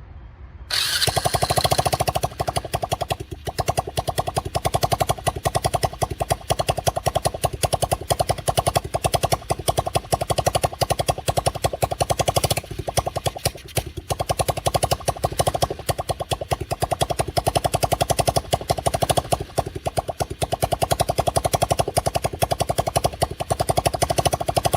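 Small ATV engine catching about a second in and running with a rapid, even firing rhythm that dips briefly a few times. It is running on a hot-wired ignition after more than two years standing.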